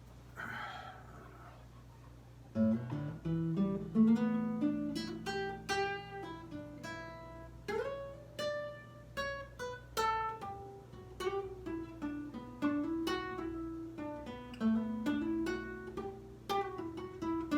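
Lyle nylon-string guitar played as a melody of plucked notes that ring on, starting about two and a half seconds in. A steady low hum runs underneath.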